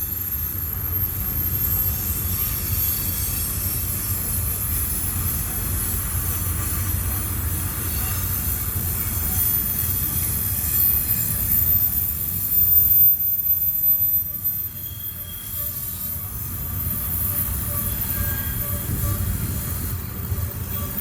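Freight train cars rolling through a tight curve, the wheel flanges squealing high over a steady low rumble of the train, a little louder past the middle.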